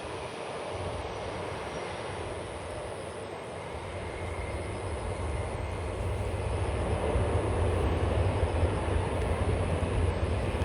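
Boeing 747's four jet engines running as the jumbo passes on the runway, a deep rumble over a broad rush that builds about four seconds in and is loudest near the end.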